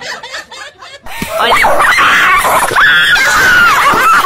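A dog howling and yowling in a long run of loud cries that glide up and down in pitch, starting about a second in.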